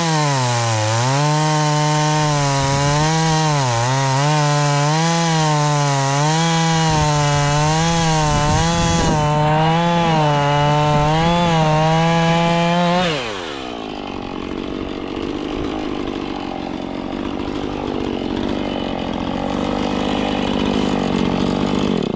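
Husqvarna two-stroke chainsaw cutting through hard ash wood at full throttle, its pitch dipping and recovering again and again as the chain bites. About 13 seconds in the throttle is released, the pitch falls away, and the engine runs on at a lower idle.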